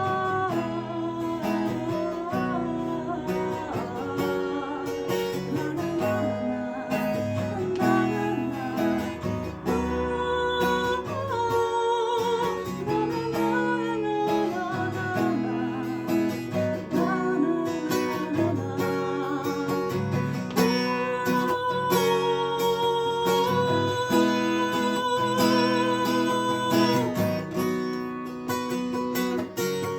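Bard song played live on acoustic guitar, with long wavering notes sung without words over the guitar.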